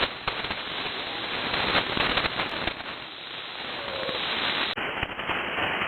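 Shortwave AM receiver hiss filled with sharp static crashes and crackles from nearby lightning (QRN), heard on an open channel between transmissions.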